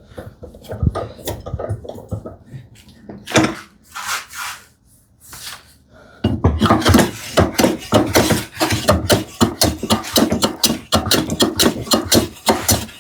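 Hand smoothing plane being pushed along the edge of a wooden board. There are a few knocks and single strokes at first, then from about six seconds in a fast run of short strokes, several a second.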